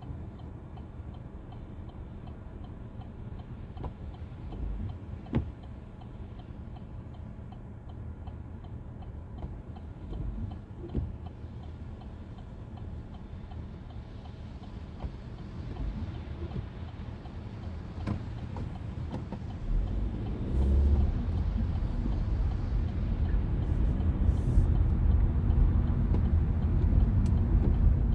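Steady low rumble of a vehicle running, with scattered clicks; it grows louder about two-thirds of the way in.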